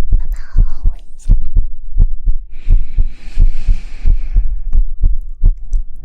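Soft, steady patting on the microphone, the hand taps of an ASMR lulling-to-sleep routine, about four low thumps a second. Midway a breathy shushing hiss lies over the taps for about two seconds.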